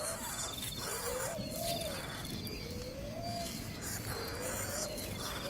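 A bird calling with short, low, rising-and-falling notes repeated about once a second, with a thin high trill in the background.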